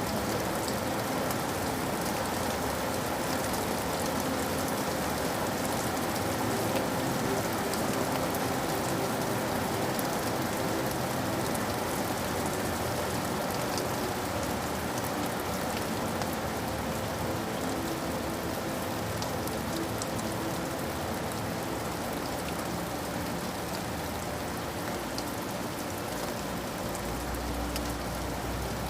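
Steady rain falling, an even hiss dotted with the ticks of single drops. A low rumble joins near the end.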